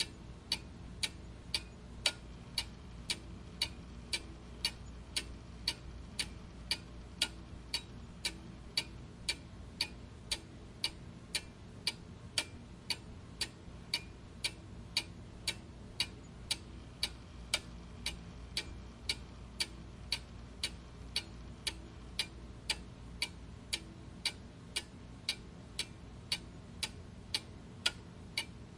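Clock ticking steadily and evenly, about two ticks a second, over a faint low hum.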